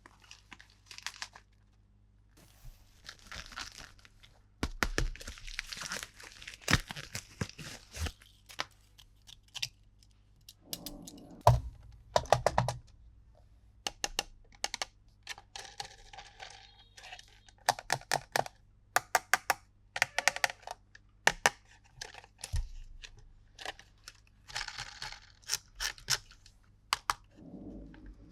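Toy packaging being opened by hand: stretches of tearing and crinkling, broken up by many sharp clicks and taps.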